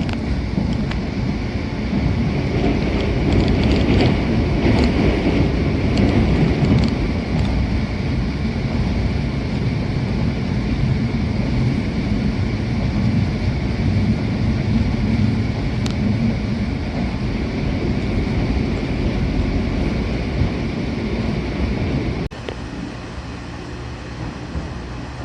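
Running noise of the WEST EXPRESS Ginga electric train heard on board: a loud, steady rumble of wheels and motors at speed, with a faint steady whine. The rumble drops abruptly about 22 seconds in.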